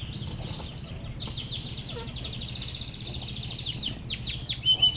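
Domestic canary singing a continuous, rapid trilled song, with strings of quick downward-sweeping notes that grow denser near the end, over a steady low hum.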